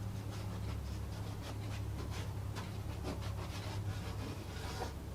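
A run of light clicks and rattles from small hard parts being handled and searched through, over a steady low hum.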